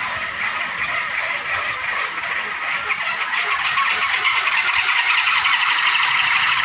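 Kolecer, a wooden wind propeller, spinning in the wind with a fast buzzing drone that grows louder toward the end.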